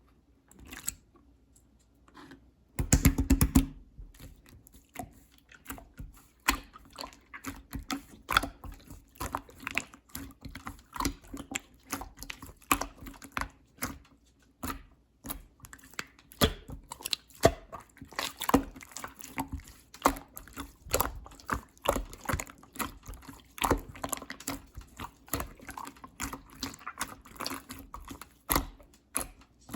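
Clear slime being squished and worked by hand, giving a steady run of small wet clicks and pops. About three seconds in there is a louder burst of handling noise lasting about a second.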